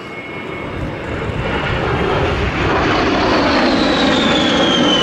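Jet aircraft making a low pass. The engine noise builds over the first couple of seconds, then a high whine falls steadily in pitch as the aircraft goes by.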